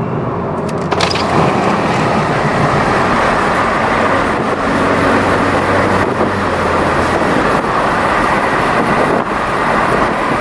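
Wind and road noise rushing through the open windows of a VW Mk6 GTI driving at highway speed, jumping up about a second in. A steady low hum from the muffler-deleted exhaust sits faintly underneath.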